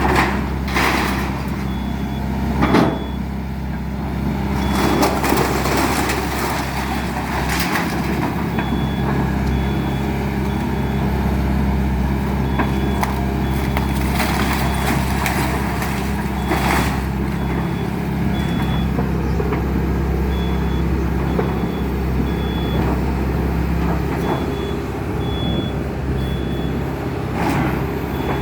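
Excavator's diesel engine running steadily, with a high-pitched warning alarm beeping on and off. A few sharp crunches and knocks of demolition debris breaking come through, the loudest about three seconds in.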